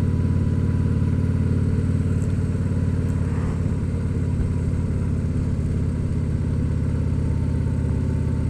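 Harley-Davidson Tri-Glide Ultra Classic trike's V-twin engine running steadily while cruising, with a low, even drone.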